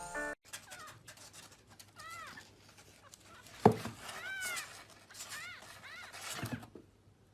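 Kitten mewing: about four short, high, rising-and-falling mews, with a sharp knock about halfway through.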